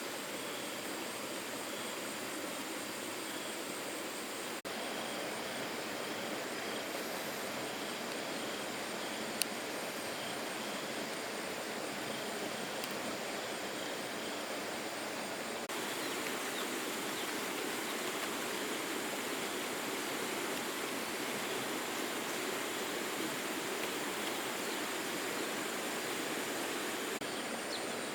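Steady outdoor rushing noise like flowing water, with a faint high chirp repeating about twice a second. The overall sound shifts abruptly about five and sixteen seconds in.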